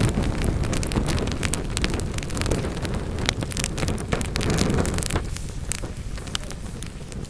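Wood fire burning in a fireplace: logs crackling and popping in quick irregular clicks over a low rumble of the flames. The rumble eases off about five seconds in while the crackles go on.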